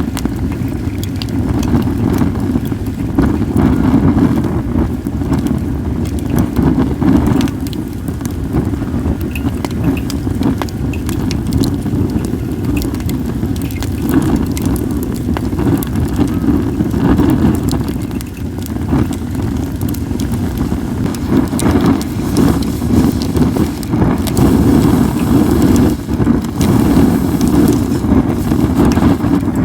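Wind buffeting the microphone as a steady low rumble, over the scattered crackles and pops of a wood fire of acacia and other logs.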